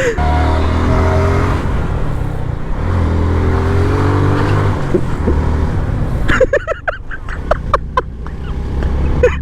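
Motorcycle engine running under the rider, with wind on the microphone; its pitch rises and falls as the bike speeds up and eases off. From about six seconds in, the engine drops back and short, broken higher sounds come through.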